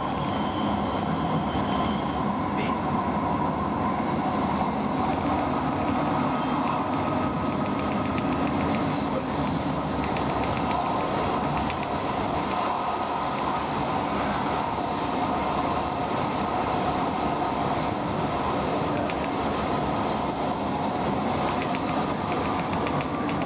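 Cabin ride noise of a Roslagsbanan X10p electric train running along the line: a steady rumble of wheels on rail. About a third of the way in, a thin, steady high tone joins it.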